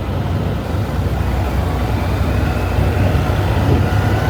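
Honda Monkey's single-cylinder motorcycle engine running under way in traffic, with wind buffeting the camera microphone. A faint rising whine joins about halfway through.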